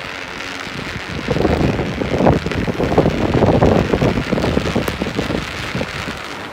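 Wind buffeting the microphone in gusts, loudest through the middle and easing off near the end.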